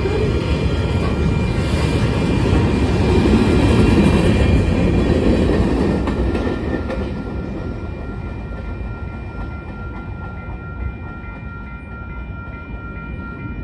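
Union Pacific freight cars rolling past at a grade crossing: a steady heavy rumble of steel wheels with clickety-clack over the rail joints. The rumble is loudest a few seconds in and eases off as the last cars go by. Over it the crossing signal's bell rings steadily.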